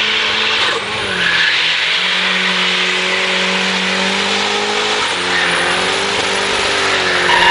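Drift car's engine held at high revs as the car slides along a wet track, its note holding steady and then shifting around five seconds in, over a constant hiss.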